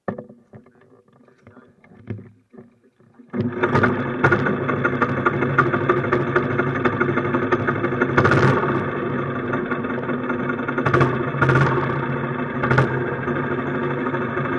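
A few knocks, then a minibike engine starts about three and a half seconds in and runs steadily at idle, with a few brief sharp blips.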